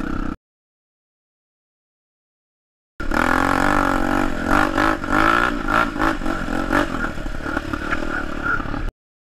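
Enduro dirt bike engine revving, its pitch wavering up and down with some clatter. It cuts off abruptly about half a second in, leaving dead silence, comes back about three seconds in and cuts off again near the end.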